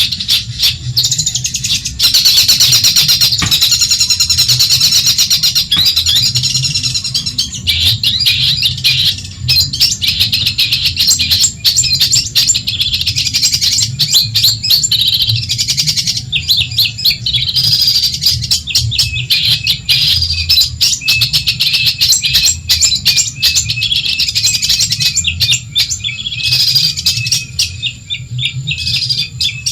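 Long-tailed shrike (cendet) singing a loud, fast, chattering song of rapid harsh notes without pause, with a very rapid trill a couple of seconds in.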